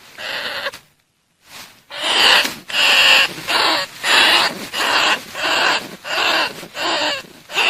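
Bandicoot rat calls: a string of harsh, raspy squeals, each about half a second long, repeating about one and a half times a second after a single opening call and a short pause. A call recording of the kind used to lure bandicoot rats.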